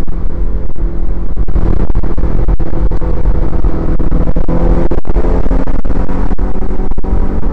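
Mitsubishi Lancer Evolution IX MR's turbocharged 2.0-litre four-cylinder engine running hard under load on track, heard from inside the cabin. It is loud enough to overload the microphone, with brief dropouts.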